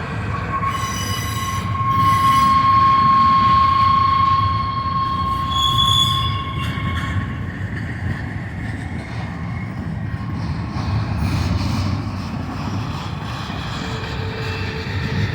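Double-stack intermodal cars rolling past with a steady low rumble of wheels on rail. A high, steady wheel squeal is held for the first several seconds, with shorter, higher squeals around six seconds in and a lower squeal near the end.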